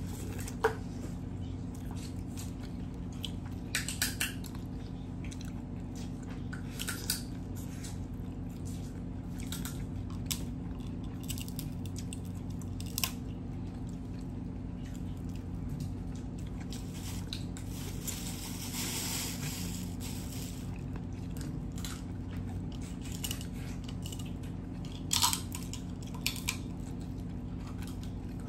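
A person biting and chewing corn on the cob and crab: scattered wet smacks and sharp clicks over a steady low hum.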